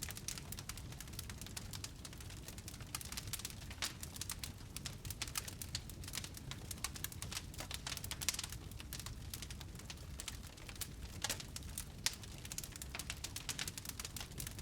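Wood fire burning in a fireplace, crackling and popping continuously over a low rumble, with a couple of sharper pops about eight and twelve seconds in.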